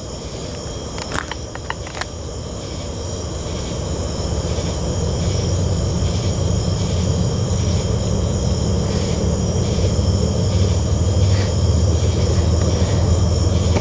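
Low rumble of an approaching train, growing steadily louder, over the steady chirping of crickets.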